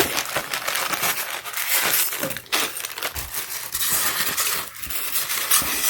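Plastic packaging crinkling and rustling continuously as packaged assembly hardware is handled, with a few small clinks.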